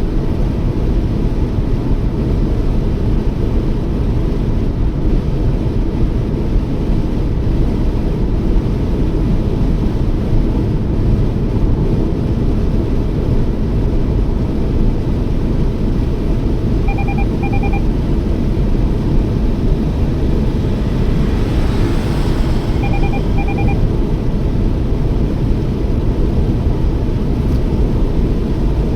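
Steady rumble of a Toyota Yaris driving, with engine and road noise heard from inside the car. Past the middle come two short sets of electronic beeps, about six seconds apart.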